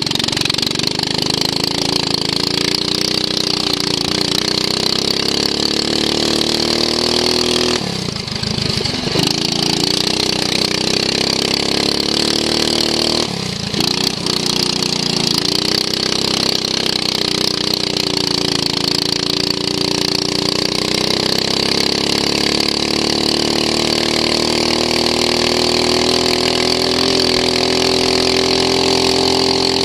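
Racing lawn mower's engine running hard, its pitch rising and falling with the throttle. The sound drops away briefly twice, about eight and thirteen seconds in, then picks up again.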